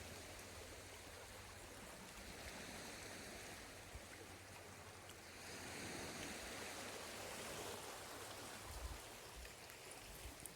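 Sea water washing on the shore, a faint steady wash that swells for a few seconds midway. Brief low rumbles come near the start and near the end.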